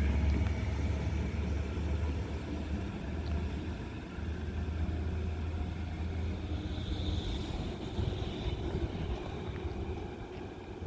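Low rumble of a train moving past, slowly fading.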